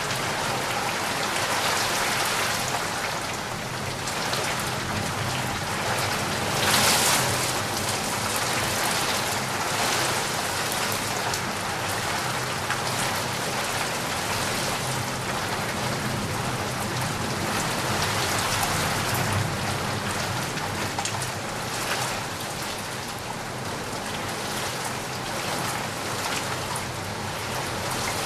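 Heavy rain falling steadily, swelling briefly louder about seven seconds in.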